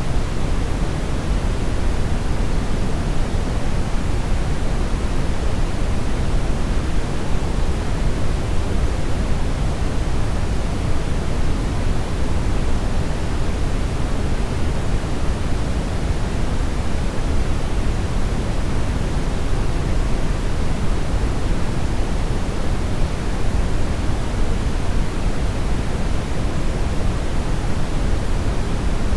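Brown noise: a steady, even rushing hiss weighted heavily toward the low end, with no tones or changes.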